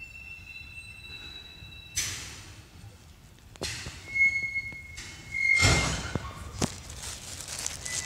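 Freight wagons rolling over a hump yard, their steel wheels giving thin high squeals as car retarders grip them, with several sharp knocks and a heavier thud about six seconds in.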